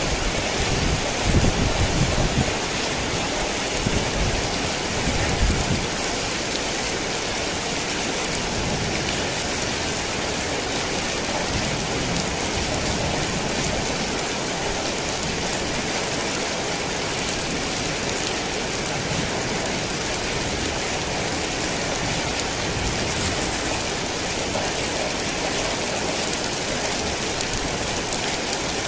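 Heavy rain falling steadily, a dense even hiss of drops on surfaces. A low rumble comes and goes during the first few seconds.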